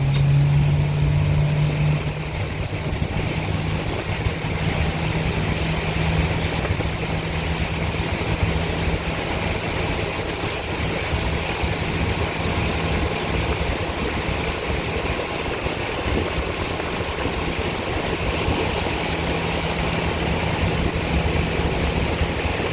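Tour boat's engine running steadily under way, with water and wind hiss; the engine note rises slightly at the start, then holds even.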